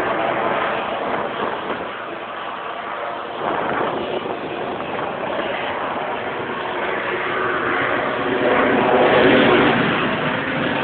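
Aircraft engine noise, a continuous roar that dips a few seconds in and swells louder near the end as the aircraft passes.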